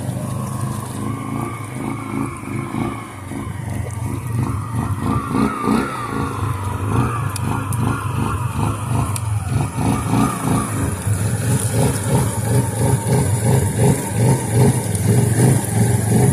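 Suzuki Eiger 400 ATV's single-cylinder engine running under throttle, its note wavering up and down, getting somewhat louder in the last few seconds.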